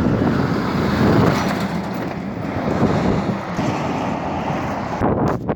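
Peterbilt 389 truck driving past close by: steady, loud engine and tyre noise, with wind buffeting the microphone. The noise thins out about five seconds in.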